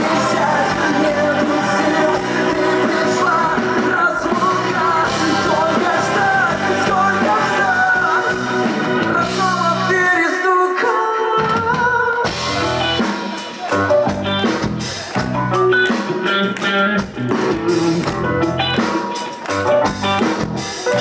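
Live rock band playing: a winding melodic line over guitars and drums, the low end dropping out briefly about ten seconds in before the band comes back in a rhythmic, drum-driven section.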